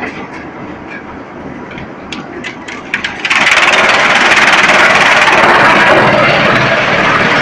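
Drum wood chipper running, with scattered sharp cracking clicks over a steady machine noise. About three seconds in, a much louder, dense rushing noise suddenly takes over and holds steady.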